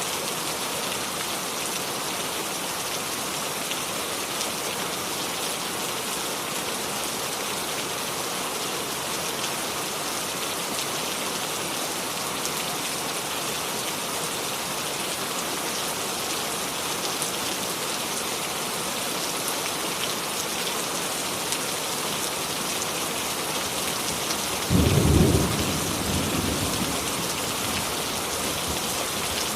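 Steady rain falling, an even hiss of many drops on surfaces. Near the end a sudden low rumble rises, lasts about a second, and fades over the next two seconds.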